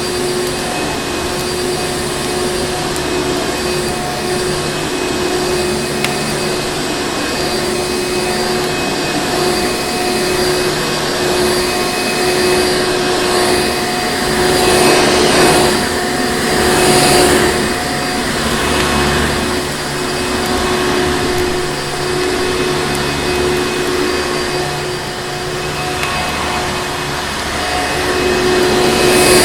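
Vacuum cleaner motor running continuously with a steady whine over its air rush, which swells louder twice about halfway through.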